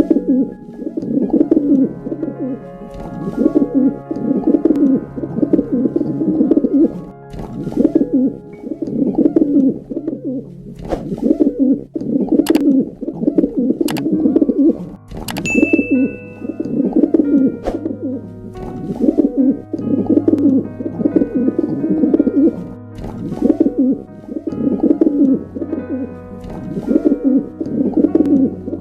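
Pigeons cooing: low coos repeated steadily about every one and a half seconds, with a few sharp clicks near the middle.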